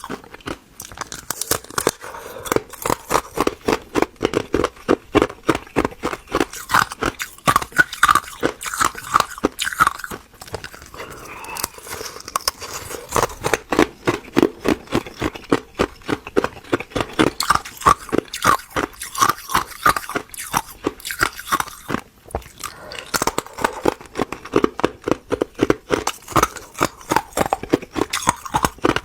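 Ice being bitten and crunched close to the microphone: a rapid run of crisp cracks, several a second, with short lulls a little before halfway and again about three quarters of the way through.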